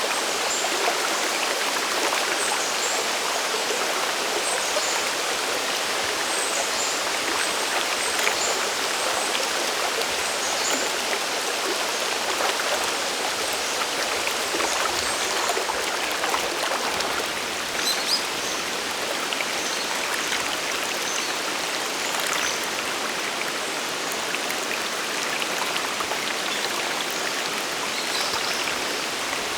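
Steady rushing of water from a mountain river near a waterfall, an even wash of sound that does not change, with faint high chirps scattered through it.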